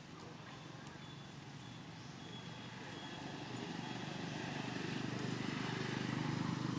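A motor vehicle's engine running steadily and growing louder through the second half, as if drawing nearer.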